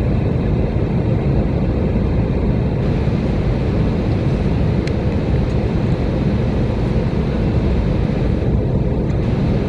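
Steady low rumble and hiss of an airliner cabin: the Lufthansa Airbus A321-200 standing at its parking position, its air conditioning running. A faint click about five seconds in.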